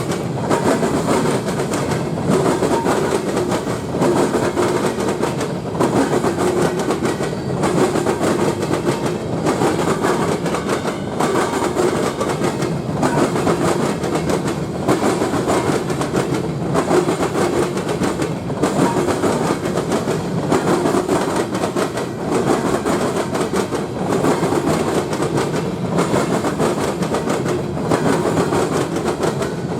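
Railcars rolling past at close range: a steady rumble of steel wheels on rail with a regular clickety-clack as the wheels cross rail joints.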